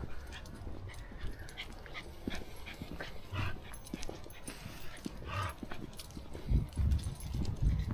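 Footsteps of a walker on a woodland path, the steps getting heavier near the end, with two short high calls about two seconds apart in the middle.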